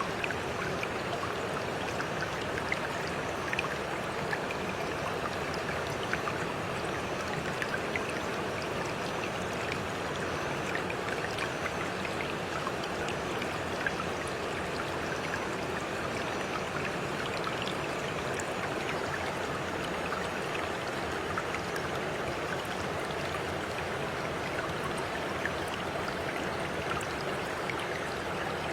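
A small stream running steadily: a constant babble of flowing water with many tiny splashes and drips.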